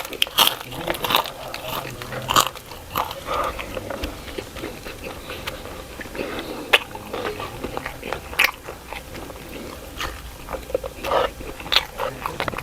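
A person chewing food close to the microphone, with irregular crunches and a few louder crisp snaps.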